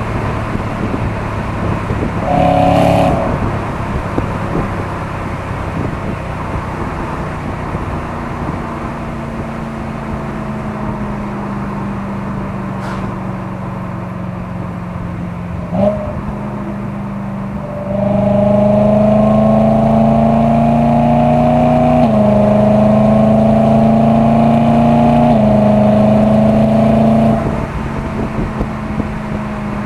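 BMW E92 M3's 4.0-litre S65 V8 through an M Performance exhaust. It gives a short throttle blip about three seconds in, then runs steadily with the pitch slowly falling. About halfway through it accelerates hard for about ten seconds, the pitch rising in three pulls with two upshifts between them, before lifting off near the end.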